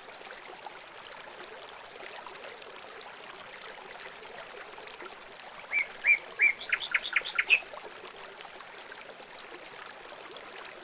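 Steady hiss of running water with a songbird singing one short phrase about six seconds in: three clear notes, then a quick run of about six sharp notes.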